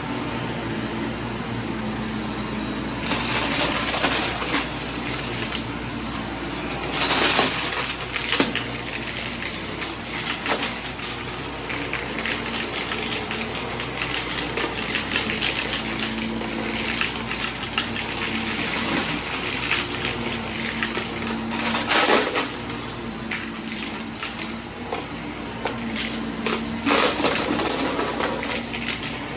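Vacuum cleaner running steadily, with several louder bursts of rushing, rattling noise as it sucks up loose debris in a mess test.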